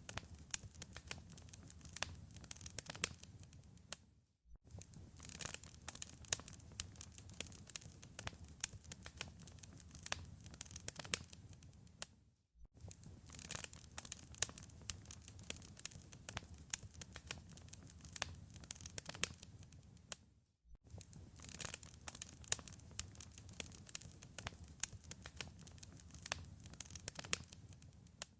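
Wood fire in a fireplace crackling, with many sharp pops over a low rumble. The crackle cuts out briefly about every eight seconds, once near 4 s, again near 12 s and near 20 s.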